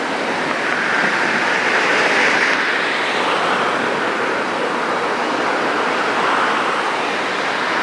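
Steady rushing noise, swelling around two seconds in and again near six seconds.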